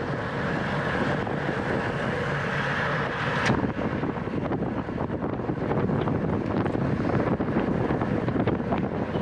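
Wind rushing over the microphone of a camera riding along on a racing bicycle, with the bike's tyre and drivetrain noise underneath. A single sharp click comes about three and a half seconds in.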